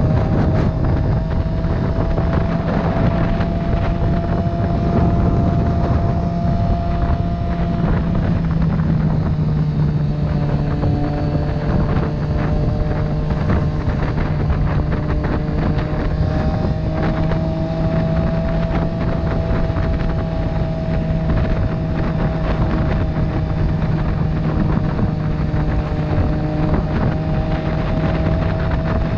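Motorcycle engine running at a steady cruising speed, its pitch drifting only slightly, with wind rushing over the microphone.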